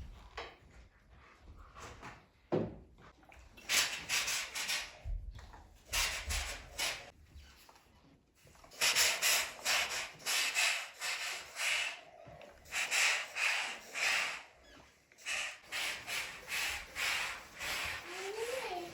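Repeated rubbing or scraping strokes, coming in groups of several strokes a second with short pauses between them.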